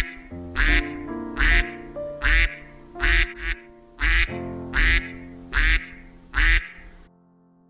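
Duck quacking over and over, about ten loud quacks a little under a second apart, over background music. It all cuts off abruptly about seven seconds in.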